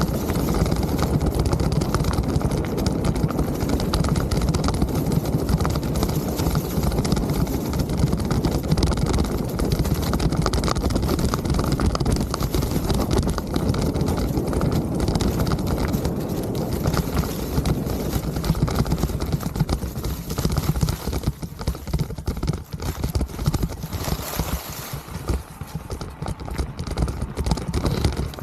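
Mountain bike riding over rough trail: a constant rumble of tyres with dense rattling and knocking from the bike. It eases about three-quarters of the way through, leaving separate knocks.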